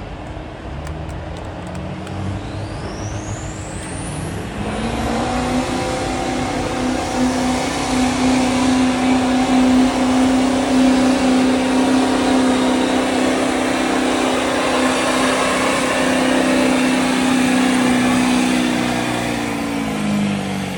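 Stock diesel pickup truck pulling a sled at full throttle. A turbo whistle rises over the first few seconds as the engine revs up, then the engine holds a steady high note under load for about fifteen seconds before dropping off near the end.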